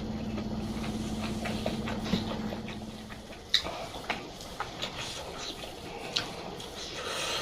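Close-miked chewing and mouth sounds of a person eating, with scattered sharp clicks and small crunches. A steady low hum runs under the first two seconds or so.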